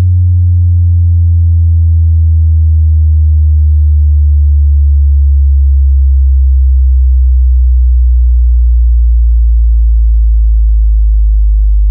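Loud deep bass test tone, a low sine tone with faint overtones, gliding slowly down in pitch.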